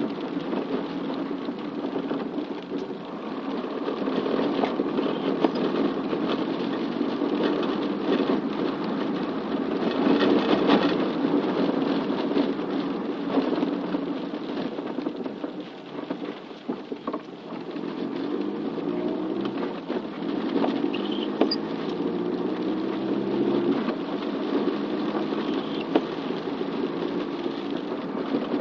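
Rain pattering and ticking, with a vehicle engine running underneath whose pitch rises and falls with speed.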